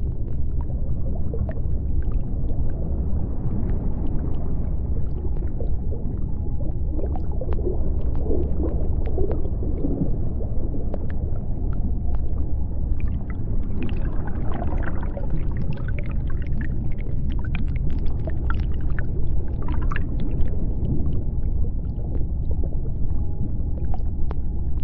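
Underwater ambience: a steady deep rumble with scattered crackling clicks, and wavering moan-like calls rising over it about a third of the way in and again through the middle.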